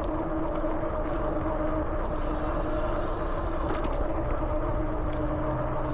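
Electric bike in motion: a steady motor hum over a constant rush of tyre and wind noise.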